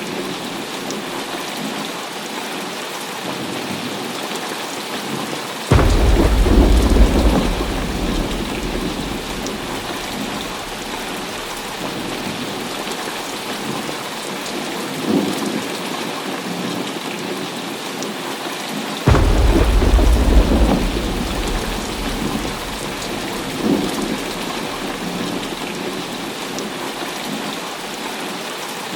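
Heavy rain falling steadily, with two sudden claps of thunder, about six seconds in and again about nineteen seconds in. Each rumbles away over a few seconds, and there are fainter rumbles in between.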